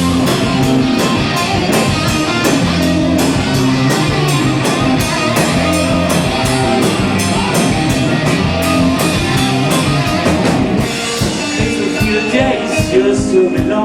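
Live rock band playing loudly, with electric guitar, bass and a drum kit keeping a steady beat of about three hits a second; the drums thin out about eleven seconds in.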